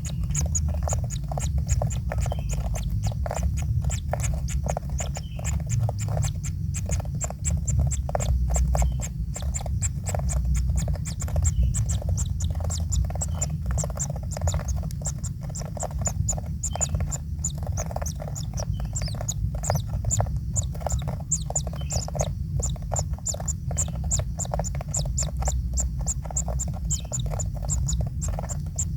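Kingfisher chicks in the nest calling with a dense run of rapid high chirps and clicks, over a steady low rumble.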